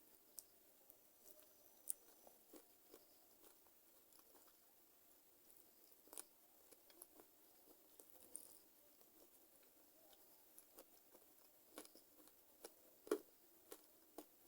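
Faint, close-miked chewing and biting on chicken feet: scattered wet clicks, pops and small crunches at an uneven pace, with one sharper crunch near the end.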